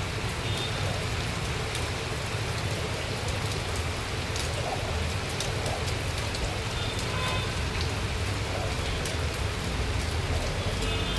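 Steady rain falling, with scattered sharp drop clicks over a continuous hiss.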